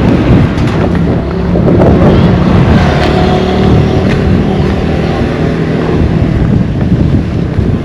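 An engine running nearby with a steady hum, mixed with wind buffeting the microphone.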